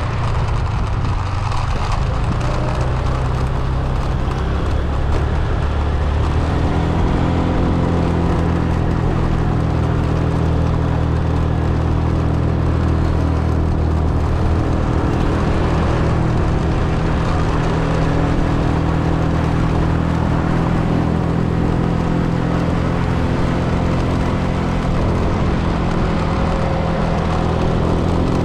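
Car engine running and road noise while driving. The engine note settles into a steady hum about six seconds in.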